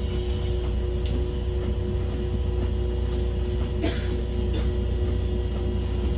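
Kintetsu electric train running along the line, heard from inside the front car: a steady low rumble with a constant hum, and two brief clicks, about a second in and near four seconds in.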